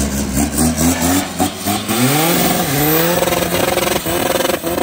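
VW Polo TDI diesel engine being revved: the pitch climbs and drops a couple of times, then is held at high revs through the second half.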